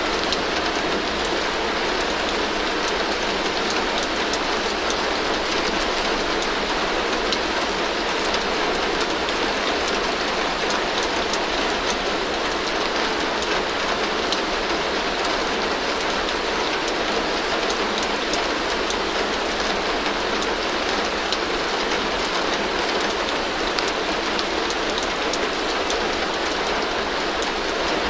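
Heavy rain falling steadily on a tin roof: a dense, even hiss of drops hitting the metal, with fine ticks of individual drops through it and no change in strength.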